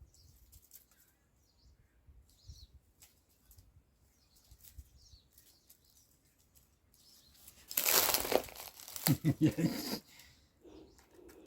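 Faint scattered bird chirps, then about two seconds of loud rustling and scraping near the end.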